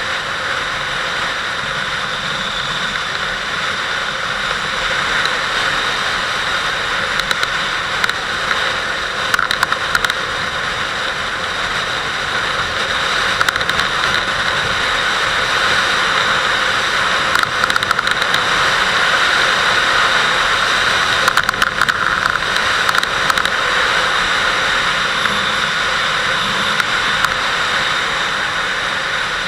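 Kawasaki Vulcan 800's V-twin engine running steadily, mixed with a constant rush of wind and road noise and scattered short crackles.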